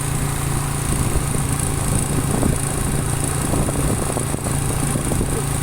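Motorcycle engine running at a steady pitch while the bike is ridden.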